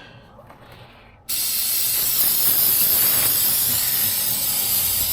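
Aerosol can of Rust Check rust inhibitor spraying in one continuous steady hiss, starting suddenly about a second in.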